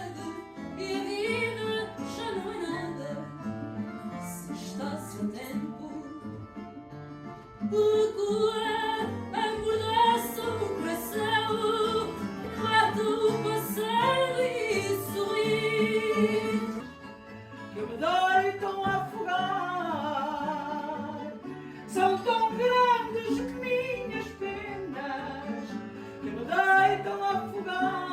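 Fado singing in Portuguese with plucked guitar accompaniment; the voice holds long notes with a wide vibrato.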